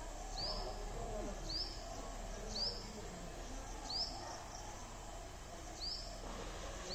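A bird calling a short, high chirp over and over, about once a second, over steady outdoor background noise.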